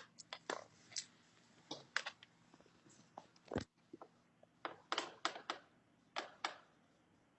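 Scattered short clicks and taps, about a dozen at uneven spacing, some in quick pairs, over faint room noise.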